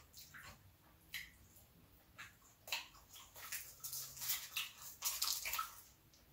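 Close-miked chewing of a mouthful of lamb gyro and French fries: a run of short, wet mouth clicks and smacks, sparse at first and busier from about halfway through.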